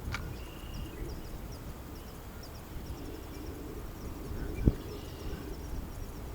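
Outdoor ambience: a steady low rumble with a row of faint, short, high chirps, and one sharp knock a little over four and a half seconds in.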